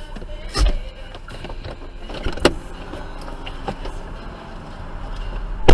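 Car on the road with a steady low rumble, a couple of sharp knocks, then a loud bang near the end that fits a collision.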